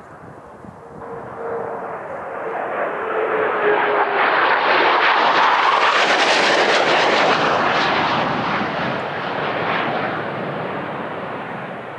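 A pair of BAE Hawk T2 jet trainers flying past low, their Rolls-Royce Adour turbofans growing louder to a peak about five seconds in and then fading away. A whine falls in pitch as they approach.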